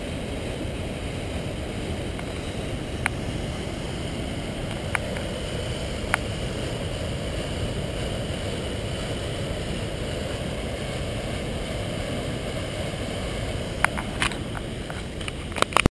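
Steady rushing noise of flowing river water, with a few sharp clicks scattered through it and a quick cluster of them at the very end.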